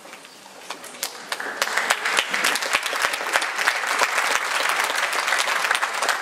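Concert audience applauding. The clapping builds over the first two seconds, holds steady, then begins to fade near the end.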